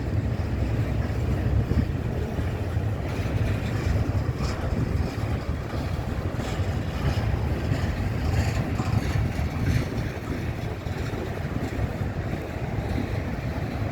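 Freight cars rolling past close by: a steady low rumble of steel wheels on the rails, with scattered light clicks and squeaks from the wheels and cars between about four and ten seconds in.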